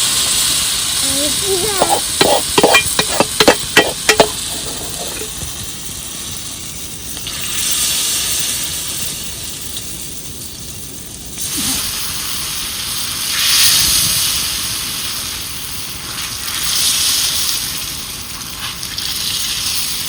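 Food frying and sizzling in a pan, the hiss swelling and fading every few seconds. About two to four seconds in there is a quick run of sharp clanks.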